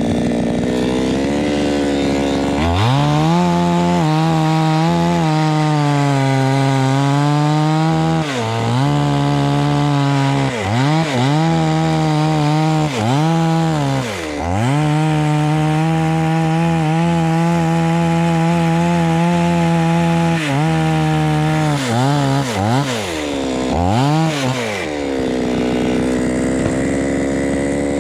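Chainsaw cutting through dry jackfruit wood. It opens up to full throttle about three seconds in, and its pitch dips again and again as the chain bogs in the cut and recovers. Near the end it settles back to the steadier speed it started at.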